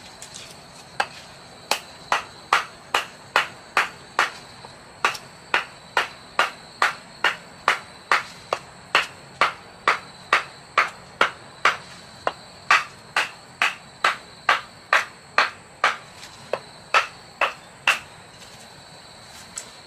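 A long, even run of sharp strikes, a little over two a second, starting about a second in and stopping near the end, over a continuous high-pitched insect drone.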